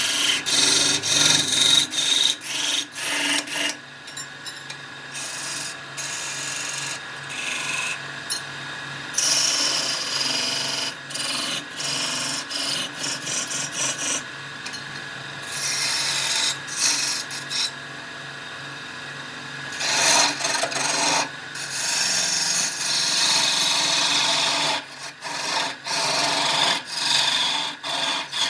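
Wood spinning on a wood lathe being scraped and cut by a hand-held tool, in many short, uneven strokes with a few longer continuous passes, over a faint steady tone.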